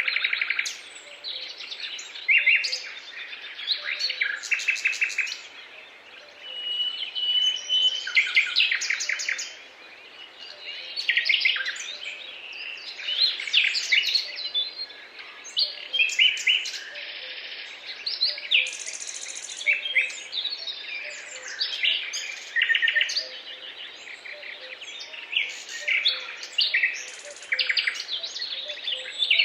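Wild birds singing: a dense chorus of short chirps and rapid trilled phrases, one after another, over a faint steady background.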